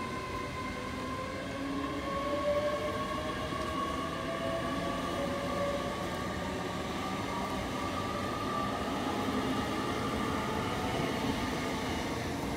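Hitachi IET trains running through a station: one moves off on a neighbouring line with an electric whine that rises slowly in pitch, over the steady rumble of a Class 800 pulling in alongside the platform.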